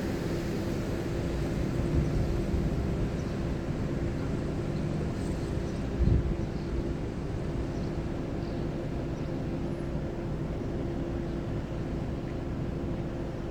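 Steady low engine hum of a vehicle, with a single knock about six seconds in.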